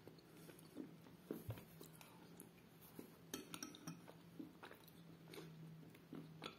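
Close-up mouth sounds of a person chewing a mouthful of chalk and clay soaked in milk: soft, irregular clicks from the mouth.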